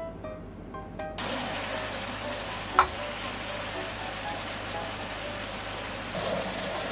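Enoki mushrooms frying in hot oil in a wok: a steady sizzle that starts suddenly about a second in, with one sharp knock of the spatula on the pan near the middle. Light background music plays throughout.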